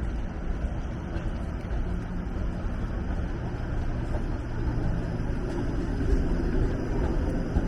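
Downtown street traffic: motor vehicles running and passing, a steady low rumble that grows louder over the last couple of seconds.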